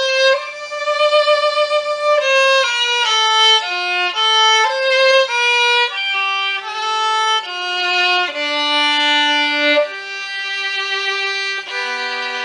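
Solo fiddle playing a stepping melody of single bowed notes, then settling on a long held note near the end, with a lower second string joining it as a double stop.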